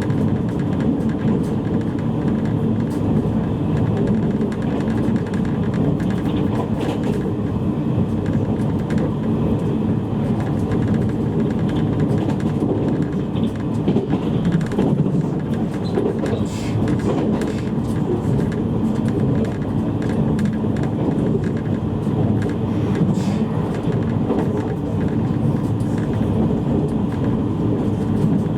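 Interior running noise of a JR East E653 series electric multiple unit under way: a steady rumble of wheels on rail heard inside the passenger car, with a few faint clicks here and there.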